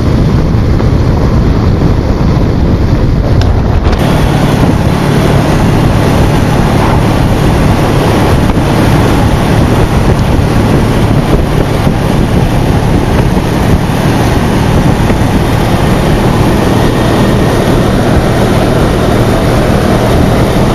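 Motorcycle running at road speed, a steady engine hum under heavy wind buffeting on the microphone.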